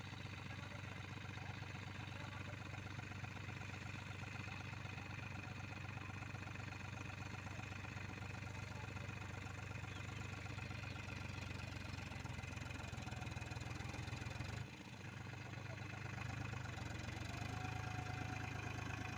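Powertrac Euro 45 Plus tractor's diesel engine running steadily, with a sudden brief drop in level about three-quarters of the way through.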